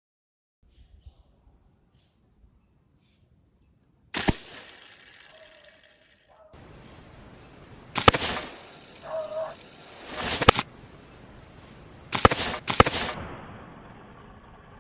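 Homemade slingshot being shot: five sharp cracks spaced a few seconds apart, the last two in quick succession, over a steady high-pitched buzz.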